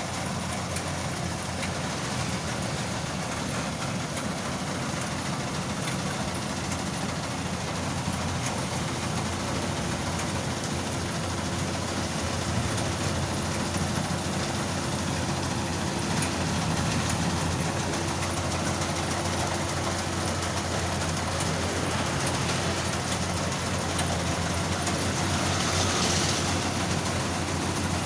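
An engine-driven combination rice thresher and blower (blower kombi) running steadily with dense mechanical noise. It gets a little louder in the second half, with a brief higher hiss near the end.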